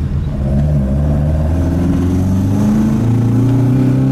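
Alfa Romeo GT 1600 Junior's twin-cam four-cylinder engine running on the move, its note rising about three seconds in as the revs climb.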